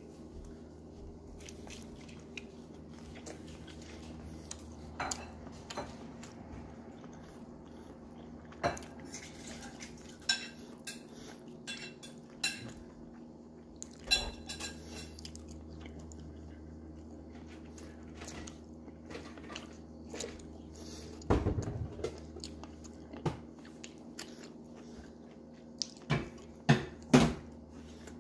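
Someone chewing a pan-fried birria taco, with scattered clicks and knocks of tableware being handled over a steady low hum. The loudest knocks come in a cluster about three-quarters of the way through and twice more near the end.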